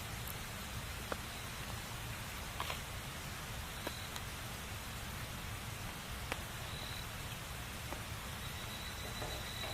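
Wood fire burning: a steady hiss broken by a handful of sharp crackles and pops, with a faint thin high whistle that comes and goes.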